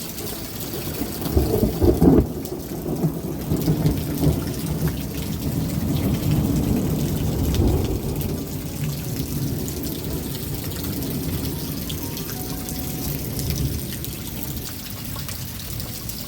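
Rain falling steadily, with thunder rumbling. The rumble is loudest about two seconds in and swells again about halfway through.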